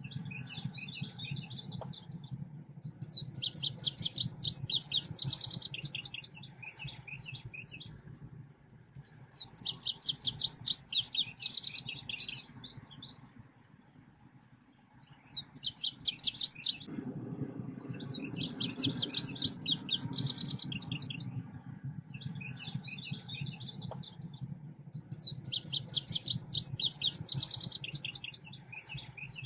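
Song of the selendang biru songbird: bursts of rapid, high chirping trills, each one to three seconds long, repeating every few seconds over a steady low hum.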